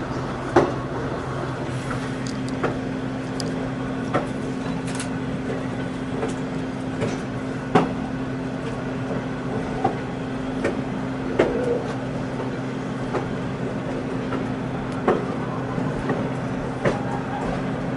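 Ride in a coach of a slow-moving diesel-hauled passenger train: a steady low hum with scattered, irregular clicks and knocks from the car.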